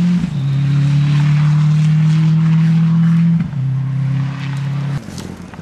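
Rally car engine running hard at high revs as the car passes close by, holding a steady note. The note breaks briefly and drops twice, like upshifts, then cuts off suddenly about five seconds in.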